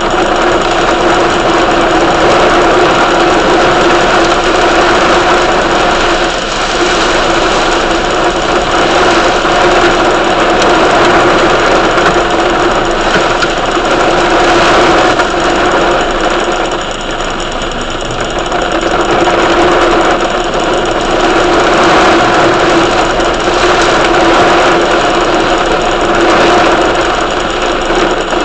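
Heavy rain pouring steadily, swelling and easing slightly, with a steady hum underneath.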